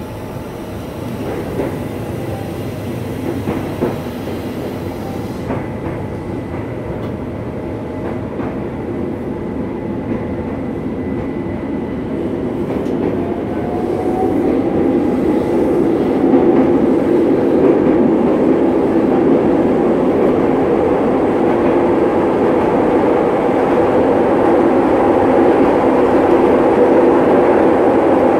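Keihan Keishin Line 800-series electric train heard from the driving cab, running through a tunnel: a steady dense rumble of wheels on rails. A rising motor whine comes about halfway through, and the running noise grows louder over the second half.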